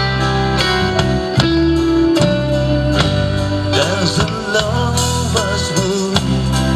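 Live band music with guitar and a sustained bass line. A wavering melodic line comes in about four seconds in.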